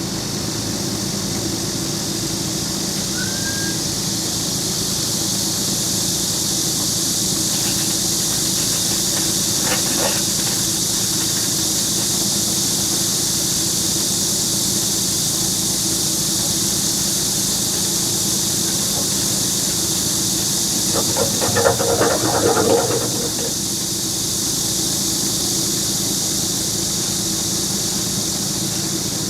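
An engine running steadily with a strong hiss. About ten seconds in there is a brief knock, and a short burst of metallic clatter and squealing comes a little past two-thirds through.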